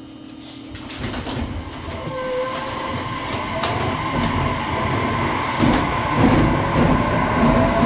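JR Kyushu 815 series electric train pulling away and accelerating, heard from inside the car. Its traction motors give a whine that slowly rises in pitch from about a second in, over a growing wheel-and-rail rumble with occasional clicks.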